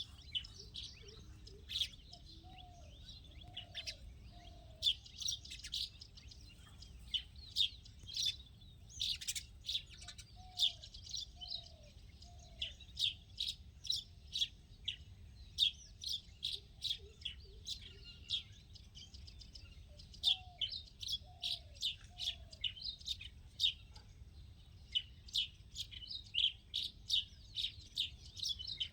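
Several small birds chirping and tweeting in a dense, continuous chorus of short high notes. A lower call of three short notes repeats now and then, about every eight to ten seconds.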